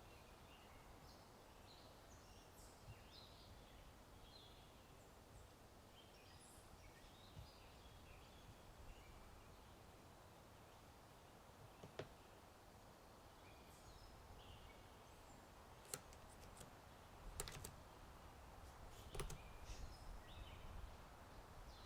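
Faint birdsong, scattered short chirps over a low outdoor rumble. From about halfway in, a few sharp, sparse clicks of typing on a computer keyboard, some in small clusters near the end.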